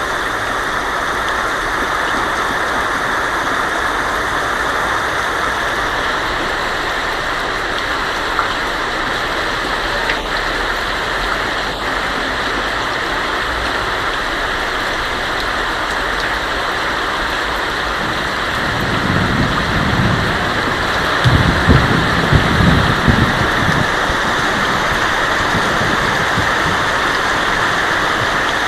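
Heavy rain drumming steadily on a tin roof. About two-thirds of the way in, a low rumble of thunder rolls in for several seconds, then fades back under the rain.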